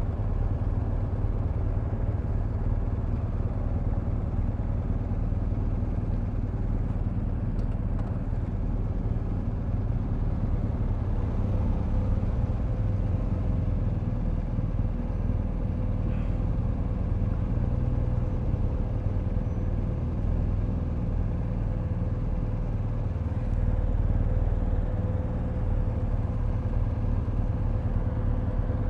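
Motorcycle engine idling in a steady low rumble amid other idling vehicles, with a faint steady hum joining about eleven seconds in.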